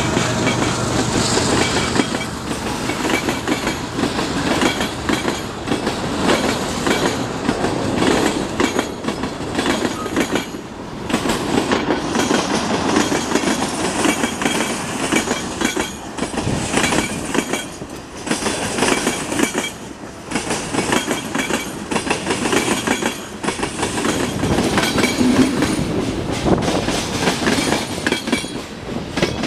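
Railway cars rolling over a diamond crossing, their wheels knocking in a dense, irregular clatter over the gaps in the crossing rails.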